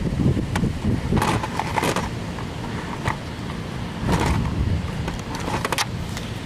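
Steady low rumble of road traffic, with short rustling and clicking handling noises, like things being handled or keys jangling, in three brief clusters.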